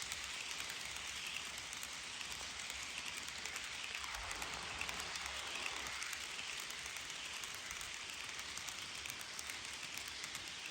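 HO-scale model freight train rolling past on its track: a steady light rushing of wheels on rail, with many fine clicks from the wheels over the rail joints.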